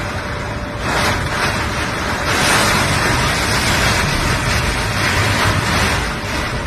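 Typhoon wind and rain: a loud, steady rushing noise that swells into a stronger gust about two seconds in and eases near the end.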